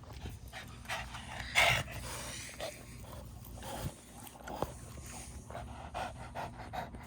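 Panting: a run of irregular breaths, with a louder one about a second and a half in.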